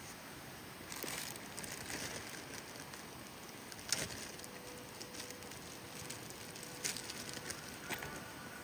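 Wood campfire crackling, with scattered sharp pops over a steady background rush.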